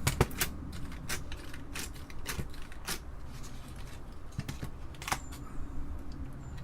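Apple II Plus keyboard being handled: irregular light plastic clicks and clacks, a quick cluster at the start and then scattered single clicks, one louder about five seconds in.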